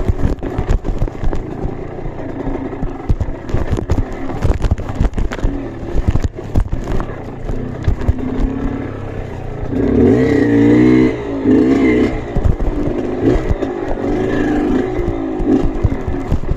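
Off-road trail motorcycle engine revving up and down, loudest in a burst of throttle about ten seconds in, with frequent clattering knocks throughout.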